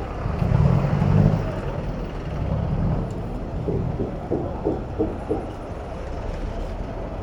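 City street traffic: motor vehicles rumbling past, with a few short faint pitched sounds about four to five seconds in.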